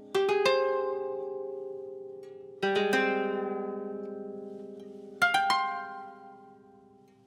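Relaxing background music on a plucked string instrument: three chords about two and a half seconds apart, each ringing out and fading slowly.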